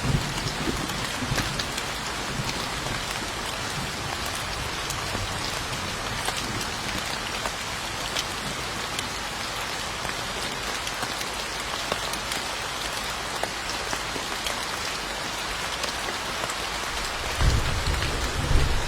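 Steady rain falling on a surface, an even hiss dotted with the small ticks of individual drops. A low rumble of thunder starts near the end.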